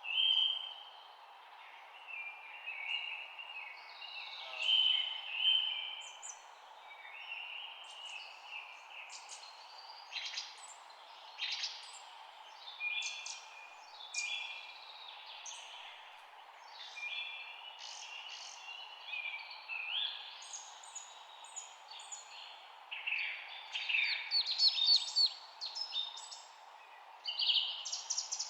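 Several songbirds chirping and singing in short phrases over a steady background hiss, the calls growing denser and more rapid near the end.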